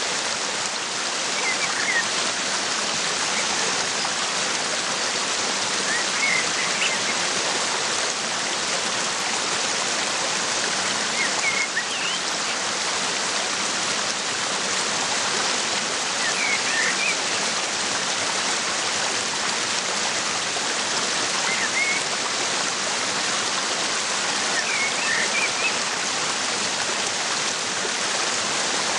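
Waterfall rushing steadily, with a bird giving short chirps about every five seconds.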